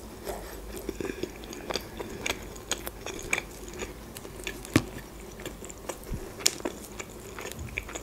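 Close-miked chewing of McDonald's chicken nuggets: soft, irregular mouth clicks and smacks as each bite is chewed.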